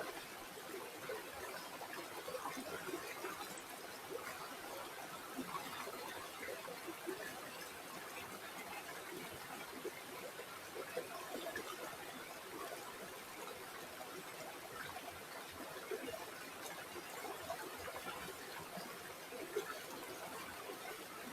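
River water flowing steadily, a continuous trickling babble without any break or change.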